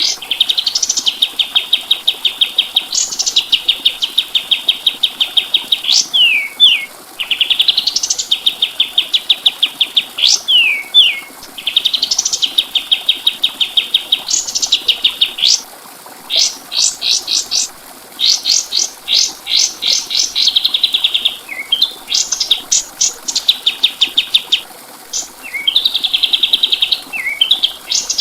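Kapas tembak (a Lalage triller) singing in fast, rattling trills of short repeated notes. Phrases alternate between a steady buzzy trill and quicker, higher stuttering notes, with brief downward slurs and short breaks between phrases.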